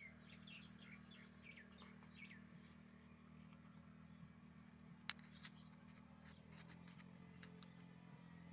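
Faint bird chirps, a run of quick falling notes in the first couple of seconds, over a low steady hum, with one sharp click about five seconds in.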